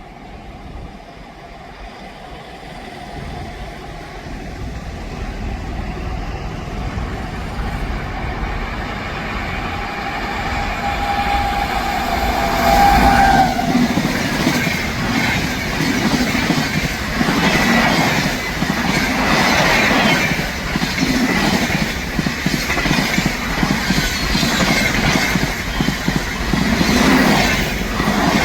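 An Indian Railways express train approaches at speed, growing steadily louder. About ten seconds in it sounds one long horn note that stops suddenly. It then rushes past with loud, repeated clatter of its wheels over the rail joints.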